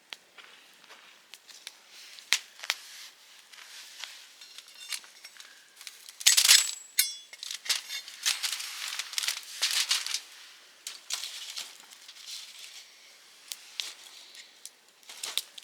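Softwood firewood burning in a Picogrill 398 fire pit, crackling with sharp irregular pops. A dense, loud cluster of pops comes about six seconds in.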